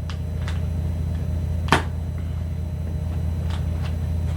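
Blade cutting the tape on a cardboard shipping box: about five light ticks and scrapes, the loudest a little under two seconds in, over a steady low hum.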